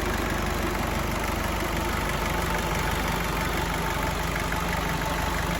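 Isuzu 3.1-litre four-cylinder turbo diesel engine idling steadily after being started.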